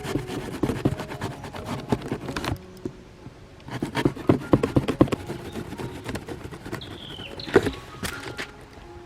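Quick clusters of clicks, knocks and scrapes from hands working wood and a box, in two busy bursts with a lull between, then a single sharper knock. A short high chirping call falls in pitch about seven seconds in.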